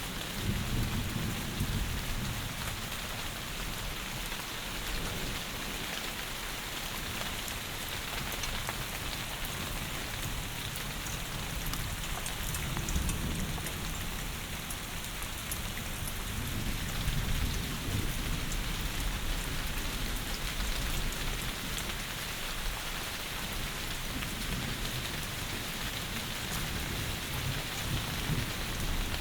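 Heavy rain falling steadily, with low thunder rumbling in swells at the start, around the middle and near the end.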